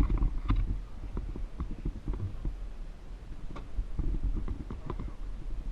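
Motorcycle engine idling: a low rumble with an uneven run of close, irregular knocks and a few sharper clicks.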